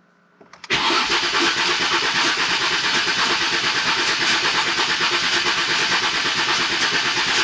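Starter motor cranking the Ford Mondeo ST220's 3.0 V6 with the fuel relay pulled, so the engine turns over steadily without firing, to build oil pressure. Cranking starts about a second in; the owner thinks the starter motor is on its way out.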